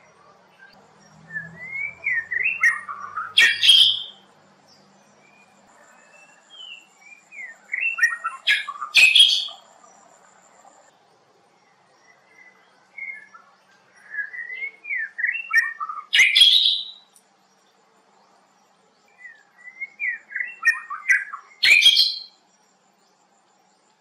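A songbird singing four phrases several seconds apart, each a quick run of rising and falling whistled notes ending in a loud sharp note.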